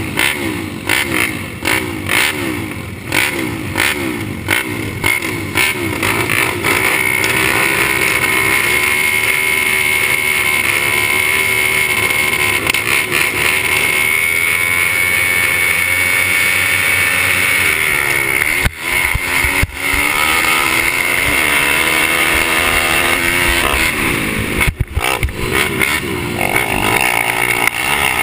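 Pit bike engines revving hard under racing throttle. Over the first few seconds the pitch rises and falls quickly with throttle and gear changes, then it holds a steadier high pitch, with two brief drops where the throttle is chopped.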